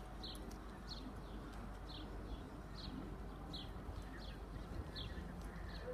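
A small bird chirping repeatedly, single short high notes about once a second at a slightly uneven pace, over a steady low background rumble.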